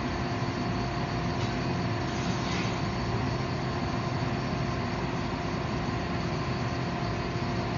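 Steady, unchanging drone of forging-shop machinery running, with a constant hum running through it.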